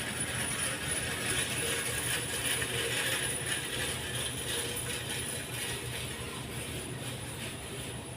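Hand ratchet wrench clicking rapidly and steadily as bolts on an Isuzu 6HL1 engine's top end are turned, over a steady low hum.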